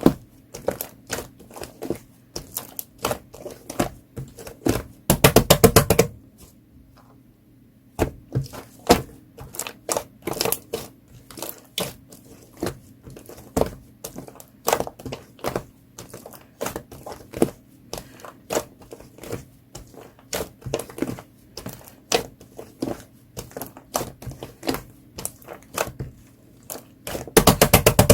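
Hands pressing and squishing clear orange slime packed with air bubbles under a layer of shaving foam: an irregular run of sharp pops and clicks as the trapped bubbles burst, with two quick crackling flurries, about five seconds in and near the end.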